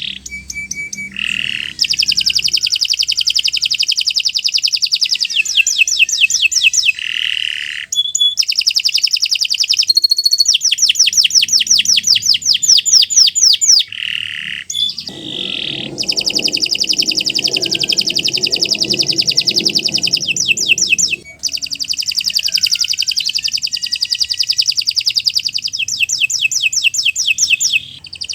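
Domestic canary singing a long, loud song of rapid trills and rolling runs of fast repeated notes, with short breaks between the phrases.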